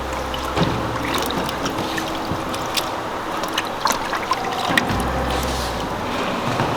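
Water running and splashing as items are rinsed off, with scattered clinks and knocks throughout.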